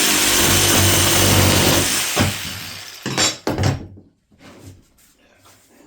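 A power tool's motor running steadily, then winding down and stopping about two seconds in, followed by a few sharp knocks of wood being handled.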